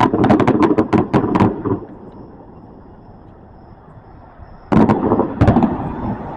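Fireworks going off: a quick string of sharp cracks for nearly two seconds, then two louder booms about five seconds in.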